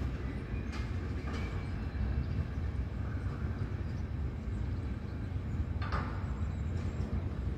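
Train running on the rails: a steady low rumble with a few brief sharp clicks about a second in and again near six seconds.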